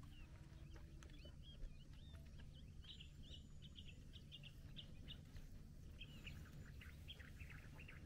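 Faint chirping of small birds, a quick run of short high calls that thickens about halfway through, over a low steady rumble.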